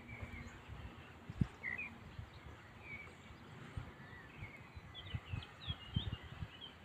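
Small birds chirping in short, scattered calls, over irregular low thumps and a faint outdoor background.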